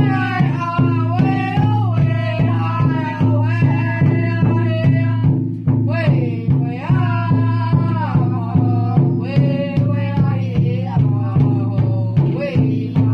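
A singer's voice rising and falling over a steady drumbeat of about three beats a second, with a low sustained tone underneath.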